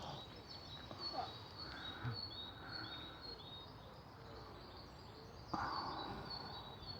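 A small bird chirping a quick series of short, high notes over and over against faint outdoor background noise. A brief rush of noise comes about five and a half seconds in.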